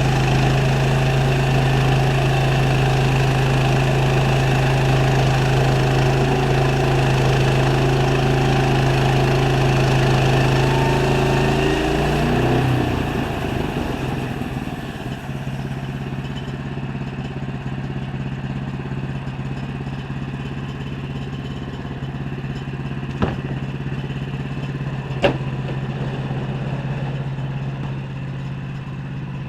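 Sawmill engine running steadily at speed, then slowing down about twelve seconds in and running on more quietly at a lower pitch. Two sharp knocks come near the end.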